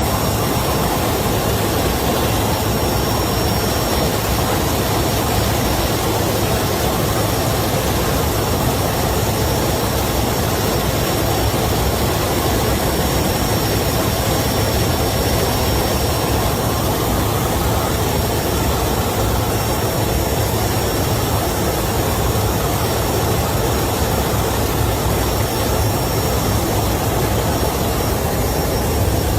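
Helicopter flying at full speed: steady loud rotor and turbine noise with a thin, high, steady whine over it.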